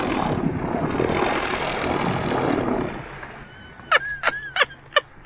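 A passing motorboat: its engine drone mixed with rushing water, fading away after about three seconds. A few short, sharp sounds follow about four seconds in.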